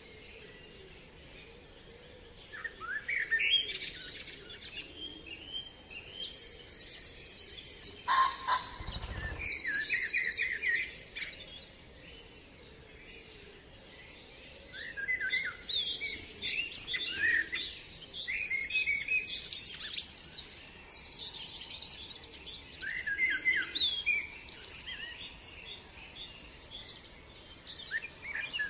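Several songbirds singing together: overlapping chirps and rapid trills, some rising and falling, in bouts with short lulls. About eight seconds in there is a brief low rumble.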